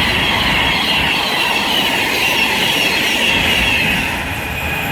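Class 390 Pendolino electric train running through the station at speed: a loud, steady rush of wheel and rail noise, with a high whine that slowly drops in pitch and fades near the end.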